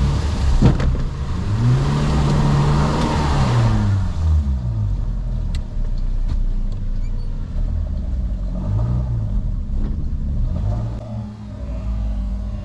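A 4x4's engine revs up and back down, with a rushing noise during the first rev, then gives a second shorter rev near the nine-second mark. It is working under load to tow a bogged vehicle out of the mud.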